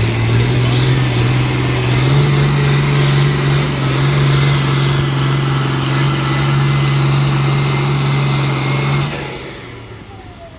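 Engine of a pulling truck or tractor running hard at high revs during a pull, its pitch stepping up twice in the first two seconds and then holding steady. About nine seconds in it falls away quickly as the engine is let off.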